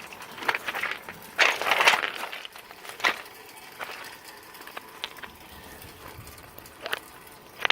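Footsteps crunching on wet ground, a handful of uneven steps, the loudest about a second and a half in.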